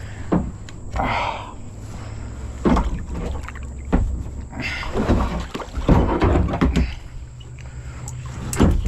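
Irregular knocks and scrapes on a kayak as a fishing magnet, loaded with nails and scrap iron, is hauled up out of the river and handled.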